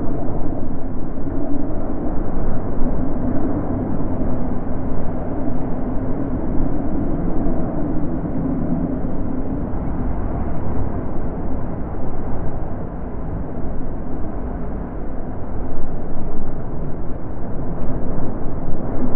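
Wind blowing, a low, rushing noise that swells and eases unevenly, growing louder again near the end.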